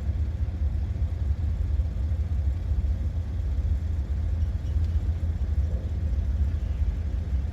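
Porsche 986 Boxster's flat-six engine running with a steady low rumble, without clear revving up or down.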